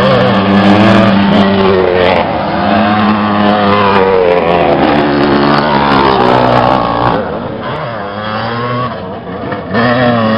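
Vintage motocross motorcycle engines revving hard, their pitch rising and falling as the bikes accelerate and back off. The sound eases about seven seconds in, then picks up again near the end.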